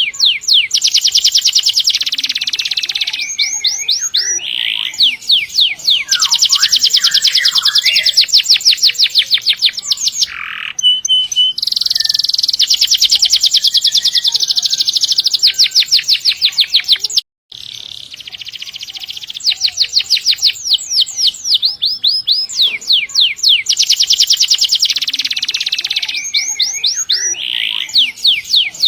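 Domestic canary singing hard in long rolls: fast, high trills of rapidly repeated notes run on for several seconds at a time, with short breaks between phrases. The song cuts out completely for a moment about two-thirds of the way through.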